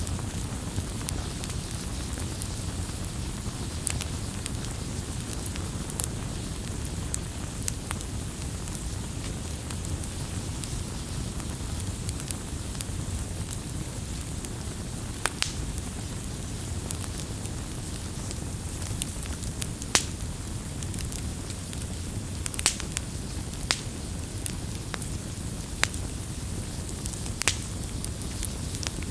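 Campfire burning, a steady low rumble and hiss with scattered sharp crackles and pops from the burning wood.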